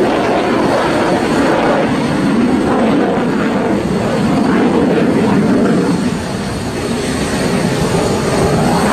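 Loud jet roar of a JF-17 Thunder fighter's Klimov RD-93 turbofan in flight, dipping slightly about six seconds in and then swelling again.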